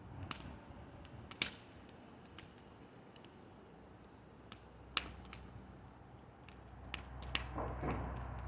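Bonfire crackling, with scattered sharp pops at irregular intervals, a few louder ones standing out, and a low rumble rising in the second half.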